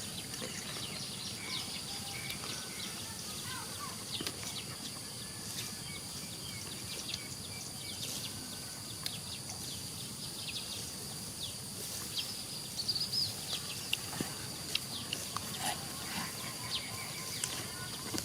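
Outdoor field ambience: a steady high-pitched drone with many short high chirps and clicks scattered through it, coming more often in the second half.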